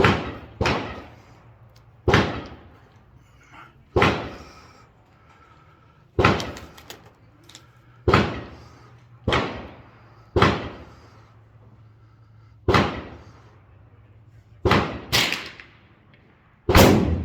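Gunshots on a firing range: about a dozen single sharp shots at uneven intervals of one to two seconds, each with a short echoing tail.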